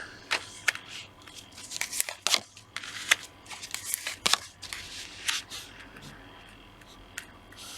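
Tarot cards being handled: a run of irregular short snaps and soft rustles as the deck is shuffled and cards are drawn.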